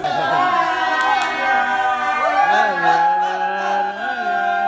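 A man singing long, drawn-out held notes, unaccompanied, his pitch bending slowly between notes.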